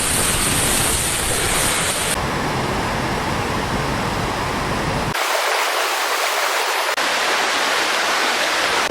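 Rushing floodwater: a loud, steady rush of water noise. Its character changes abruptly about two, five and seven seconds in, as one stretch of water sound cuts to the next.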